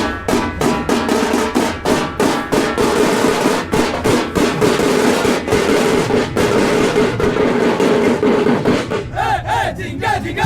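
A street band of hand-beaten frame drums playing a loud, fast, driving rhythm. Near the end a few short wavering higher notes come over the drumming.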